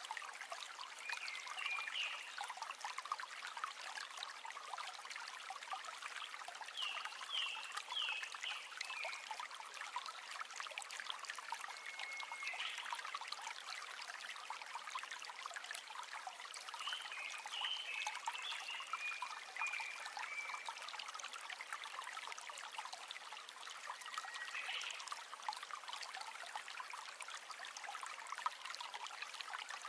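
River water trickling and burbling steadily over stones, with a few short high chirps from an animal now and then.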